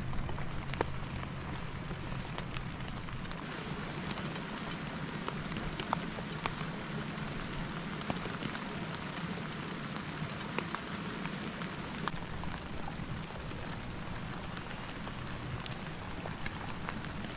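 Steady hiss of rain falling, with scattered sharp ticks throughout.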